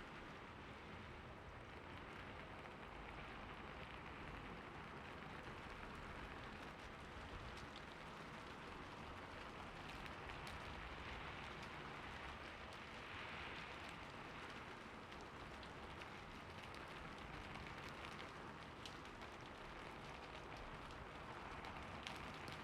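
Steady, soft rain falling, with scattered light drop ticks.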